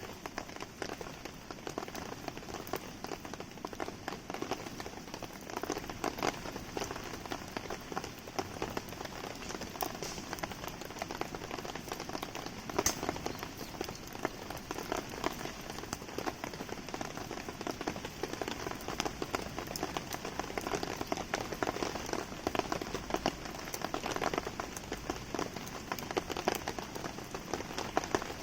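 Steady rain pattering, mixed with the crackle of a wood campfire: many small sharp ticks throughout and one louder snap about thirteen seconds in.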